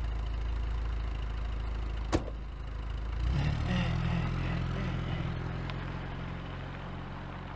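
Car engine running steadily, with a single sharp click about two seconds in; from about three seconds a deeper, steady engine hum comes in and slowly fades.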